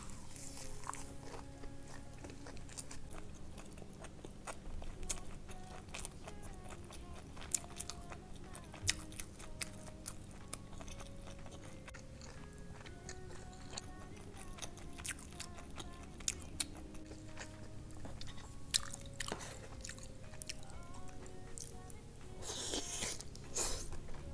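Close-miked chewing and crunching of fried rice with duck intestines and gizzards, with sharp wet mouth clicks and bites scattered throughout. Soft background music with held notes runs underneath. A louder burst of noise comes near the end.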